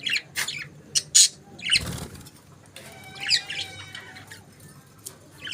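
Pet budgerigars chirping: scattered short, sharp high chirps, with a longer warbling call about three and a half seconds in. About two seconds in there is a brief, fuller burst, likely a flutter of wings.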